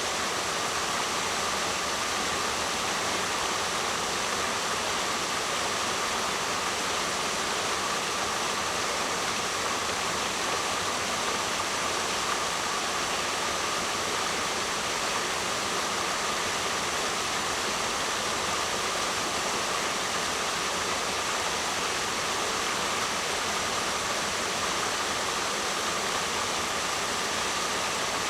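Waterfall: a steady, unbroken rush of falling water, with no surges or pauses.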